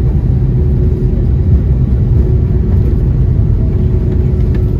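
Airbus A320neo cabin noise during the landing phase: a loud, steady low rumble of engines and airflow with a steady hum above it.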